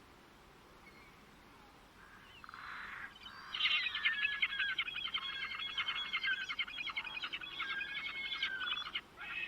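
A songbird singing one long, rapid song of quickly repeated notes and trills, starting about three seconds in and breaking off shortly before the end. Another call begins right at the end. Before the song there is only a faint, even background hiss.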